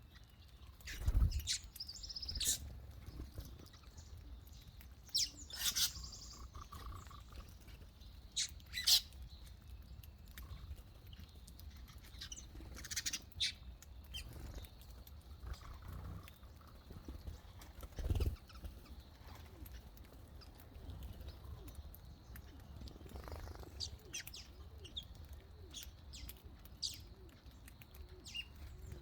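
Several birds calling: scattered short chirps and squawks over a steady low rumble, with two dull thumps, about a second in and about eighteen seconds in.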